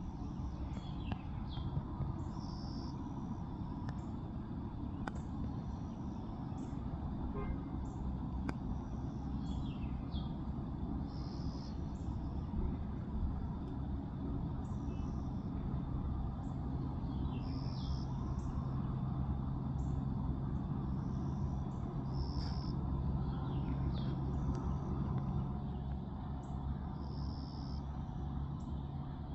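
Songbirds calling again and again with short high chirps and downward-sliding whistles, over a steady low drone.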